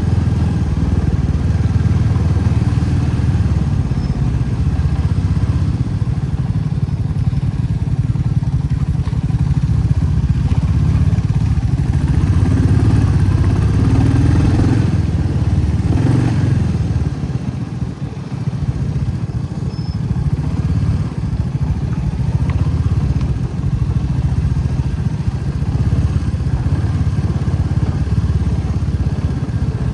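Motorcycle engine running steadily under way, a continuous low rumble that eases briefly about two-thirds of the way through.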